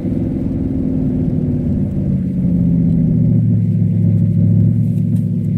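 Cadillac STS-V's supercharged 4.4-litre Northstar V8 running under way. The engine note eases down over the first few seconds, then holds steady at a lower pitch.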